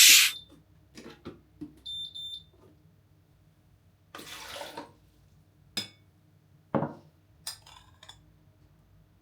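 Kitchen work sounds: scattered clicks and knocks of items being handled, a short high tone about two seconds in, and a brief rush like running water just after four seconds.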